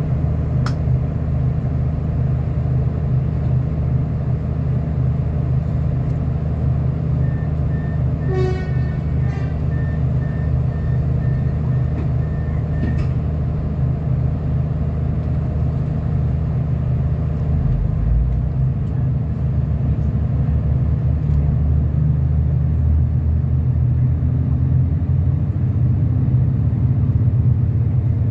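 Electric suburban train heard from inside the carriage, standing at a platform with a steady low hum. About eight seconds in there is a short toot, and a run of quick high beeps lasts for about five seconds. From about eighteen seconds the train starts to move, with a low rumble that pulses faster as it gathers speed.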